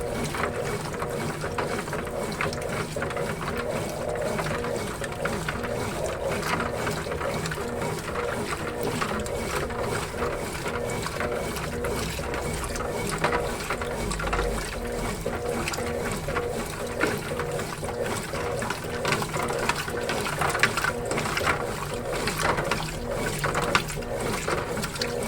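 Consul Facilite 11 kg washing machine running a wash cycle: its motor drives a steady hum under the water and clothes churning in the drum.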